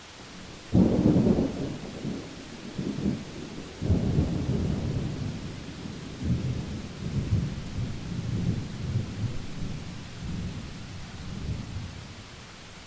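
Thunder over steady rain hiss: a sudden loud clap about a second in, a second peal a few seconds later, then a long rolling rumble that fades out near the end.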